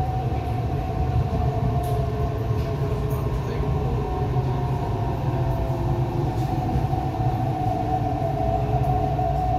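Inside an MTR East Rail Line R-Train electric multiple unit running into a station: a steady low rumble of the wheels on the track with a steady whine over it.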